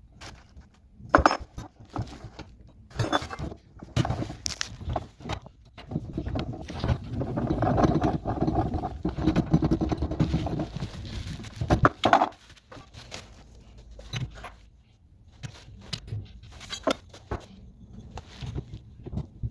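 Irregular clinks and knocks of tools and metal parts being handled during installation work, with a longer, rougher spell of continuous noise in the middle.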